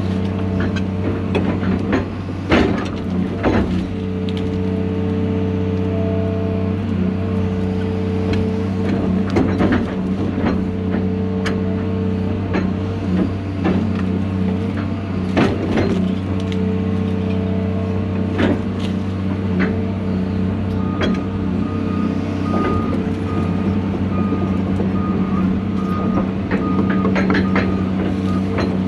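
John Deere 250G LCR excavator's diesel engine running steadily under working load, with repeated sharp cracks and knocks of wood splintering and breaking as the machine works at stumps and brush.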